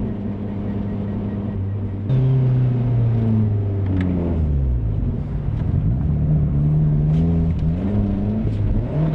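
Turbocharged Mazda MX-5 NB 1.8 four-cylinder engine pulling under throttle: steady at first, it gets suddenly louder about two seconds in and climbs. Its pitch drops around four to five seconds in and rises again, then dips and rises once more near the end.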